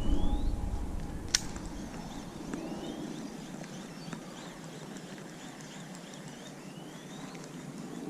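Outdoor ambience by a pond: a bird repeats a short rising whistle a few times, over a low rumble of wind on the microphone that fades away in the first two seconds. A single sharp click sounds a little over a second in.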